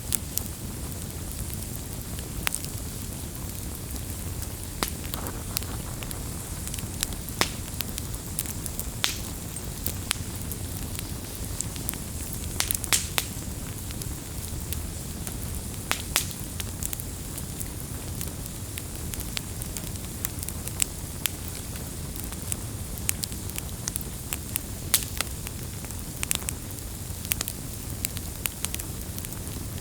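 Wood bonfire burning: a steady low rush of flames, with irregular crackles and sharp pops of burning wood scattered throughout.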